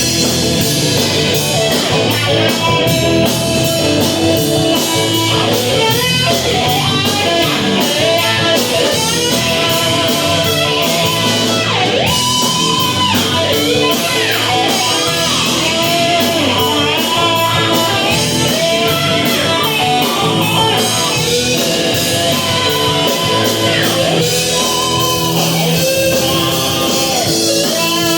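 Rock music: an electric guitar plays lead lines with bent notes over bass and drums, with a steady cymbal beat.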